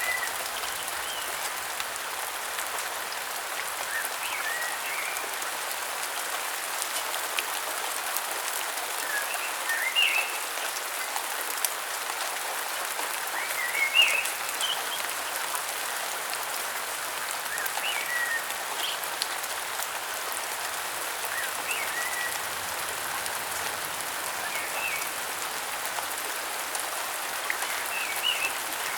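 Steady rain falling, with birds giving short chirping calls every few seconds over it.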